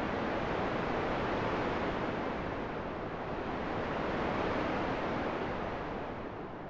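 Steady rushing wind, a dense even hiss that swells and eases slowly, dropping off a little near the end.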